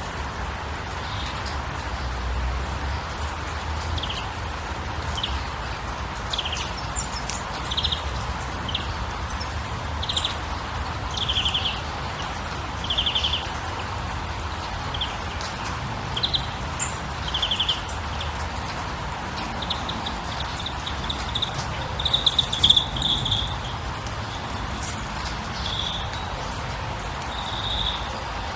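Birds chirping: short high calls about once a second, then rapid buzzy trills in the last third that are the loudest part. Underneath is a steady hiss.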